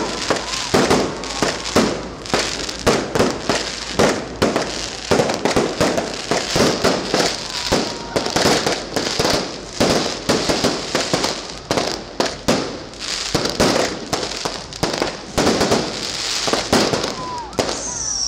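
Fireworks display going off: a dense, irregular run of bangs and crackles, several each second, with a high falling whistle from a shell right at the end.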